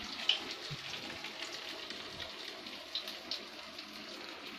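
Pieces of besan-coated leaf roll frying in hot oil in a pan: a steady sizzle with small scattered crackles and pops, the sharpest near the start.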